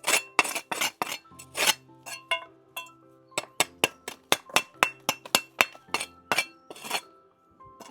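Bricks clinking and knocking against one another as they are stacked onto a pile: a long run of sharp clinks, irregular at first, then coming two or three a second, over soft background music.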